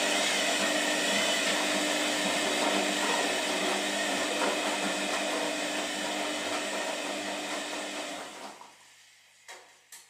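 Washing machine running with a steady motor whir. It fades away about eight seconds in, and two short clicks follow near the end.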